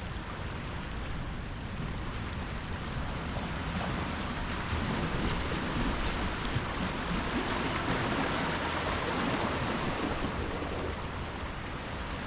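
Ocean surf washing ashore: a steady rush of breaking waves that swells about a third of the way in, peaks, and eases slightly near the end.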